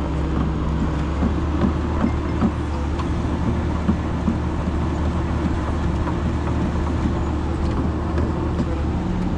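Excavator's John Deere diesel engine running steadily, with a few light knocks in the first few seconds as the bucket is worked to check its pin play.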